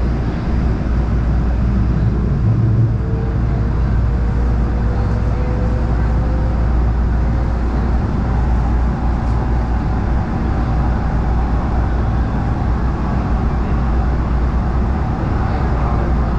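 Steady rumble of an LA Metro train running on the rails, with a faint whine that slowly rises in pitch a few seconds in.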